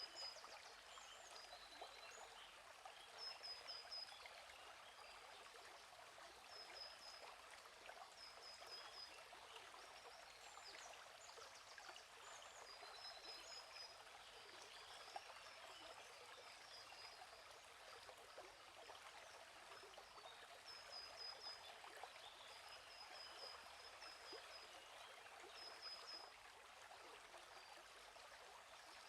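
Faint, steady flow of a gently running stream, with small birds giving short high chirps every few seconds.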